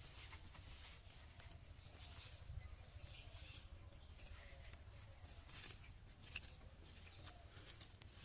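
Near silence: a faint low rumble with scattered soft rustles and clicks.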